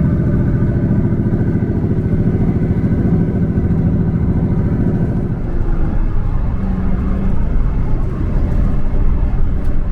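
A vehicle's engine running steadily with a pulsing beat. About halfway through its note changes and a deeper rumble takes over.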